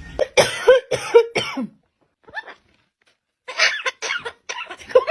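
A parrot imitating coughing: a quick run of short coughs, then a pause and another run of coughs about three and a half seconds in.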